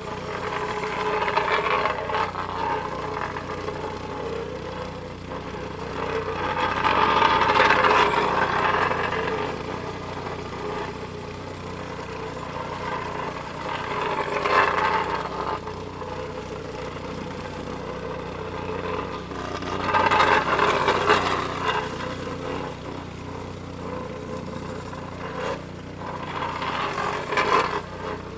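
A plate compactor (tamper) recording reworked as a sound piece: a steady low engine drone with swells of brighter, rougher noise about every six or seven seconds.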